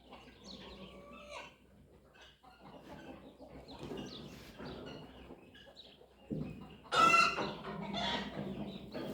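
Chickens clucking in a series of short calls, with one louder, drawn-out call about seven seconds in.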